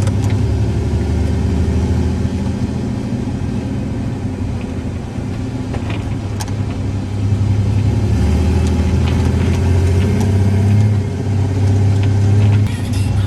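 1994 Ford Ranger 4x4 pickup driving, heard from inside the cab as a steady low engine and drivetrain drone that dips and then swells louder about seven seconds in as the truck is driven harder.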